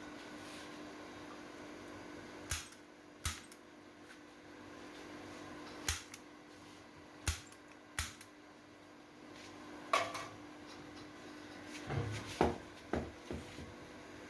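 Irregular sharp knocks and taps, about ten of them, from hand tools and materials being handled during tyre work, several coming close together near the end. A steady hum runs underneath.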